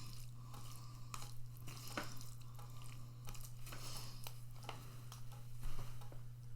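Faint clicks and scrapes of a utensil working food in a plastic microwave-meal tray, over a steady low electrical hum.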